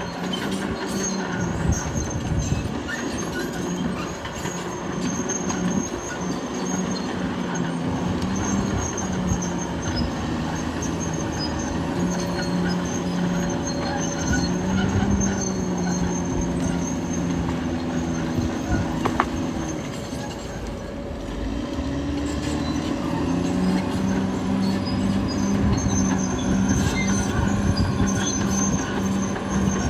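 Caterpillar D6R XL crawler bulldozer at work: its diesel engine running steadily, the note shifting up and down with load and easing off about two-thirds through, with the squeal and clatter of the steel tracks.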